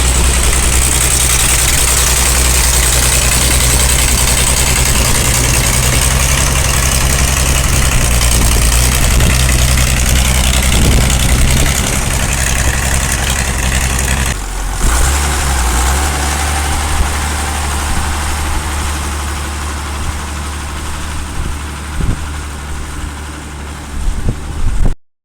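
Ford 6000 Commander tractor engine running steadily. The sound changes abruptly about halfway through and then eases off a little. It cuts off sharply just before the end.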